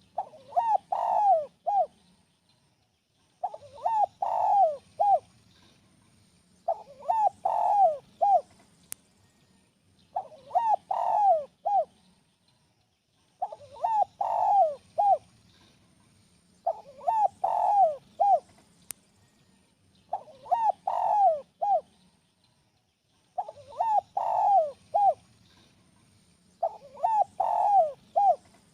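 Spotted dove (tekukur) singing its cooing song: a phrase of several quick coo notes, repeated about nine times at an even pace of roughly one phrase every three seconds.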